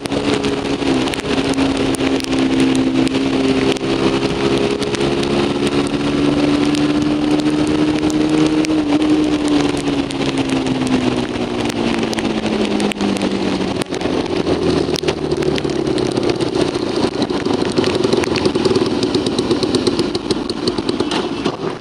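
Yuki 150 cc motorcycle engine running at speed over a steady rushing noise. Its note holds, then falls steadily over a few seconds about halfway through as the bike slows.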